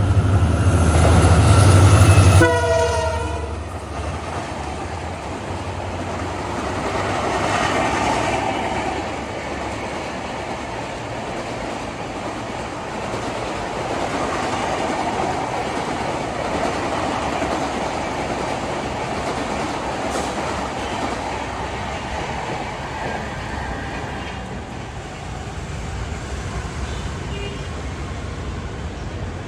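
WDP-4D diesel locomotive sounding its horn as it passes at speed, horn and engine rumble cutting off about two and a half seconds in. Its train of coaches then rushes past with a steady rolling rail noise.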